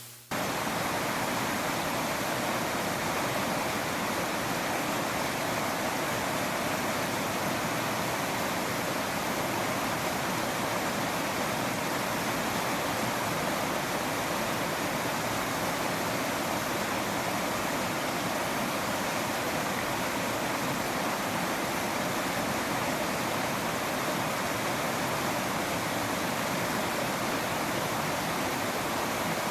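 Waterfall: a steady, even rush of falling water that cuts in just after the start and holds unchanged.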